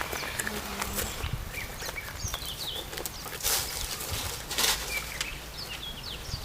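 Outdoor birdsong: many small birds making short, quick falling chirps throughout. Two brief rushes of noise come about halfway through.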